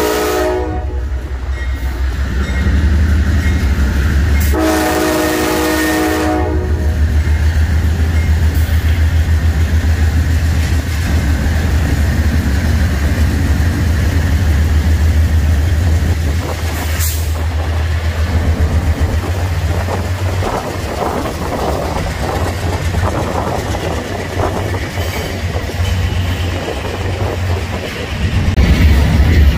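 Diesel freight locomotive passing: its multi-chime horn sounds briefly at the very start and again for about two seconds around five seconds in, over the steady low sound of the engine. From about twenty seconds in, the freight cars' wheels clatter over the rail joints.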